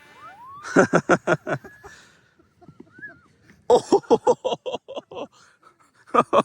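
Bouts of laughter, rapid voiced 'ha-ha' pulses about five a second, in two long runs and a short burst near the end.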